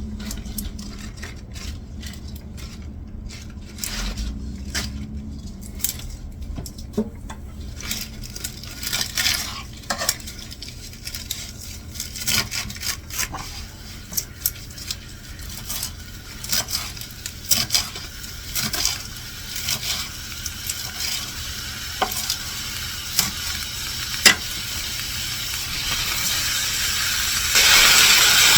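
Kitchen cooking sounds: scattered clicks and knocks of utensils against a pan and board, over onions sizzling faintly in olive oil. About a second before the end, a much louder steady hiss of frying starts.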